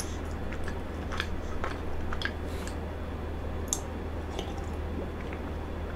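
Close-miked chewing of frozen cheesecake: soft, wet mouth clicks and smacks, scattered and fairly quiet.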